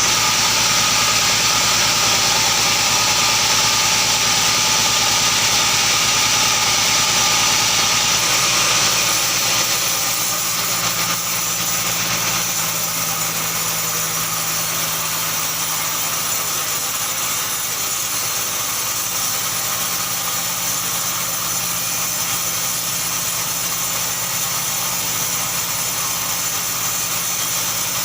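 An engine running steadily, a little quieter from about ten seconds in.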